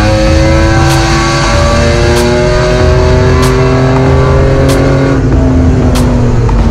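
Car engine heard inside a stripped cabin, pulling with pitch rising steadily for about five seconds, then easing off. A sharp click repeats about every second and a quarter throughout.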